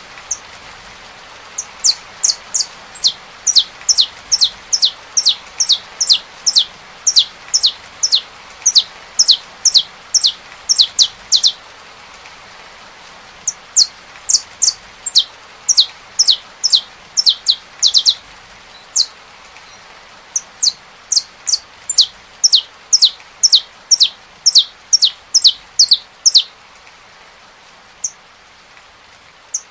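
Saffron finch singing: a long series of sharp, quickly falling notes, two or three a second, in two bouts with a short pause between them. A steady hiss of rain runs underneath.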